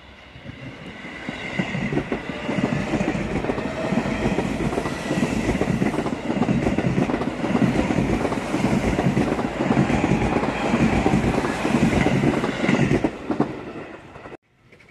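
Seibu Railway 20000 series electric commuter train passing close by, its wheels clattering in a rapid rhythm, growing louder over the first two seconds. The sound cuts off suddenly near the end.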